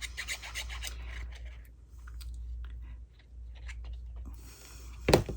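Paper craft handling: quick rubbing, scratching strokes on cardstock in the first second or so, then scattered small rustles and clicks, with one sharp tap about five seconds in.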